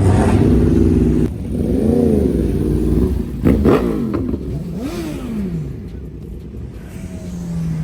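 A car engine being revved in several blips, its pitch rising and falling about three times, with a sudden loud rev about three and a half seconds in.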